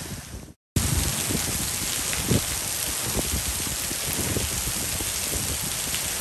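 Heavy tropical rain pouring down onto paving and the river, a dense steady hiss with low gusty rumbles underneath. The sound cuts out briefly, for a moment, just under a second in.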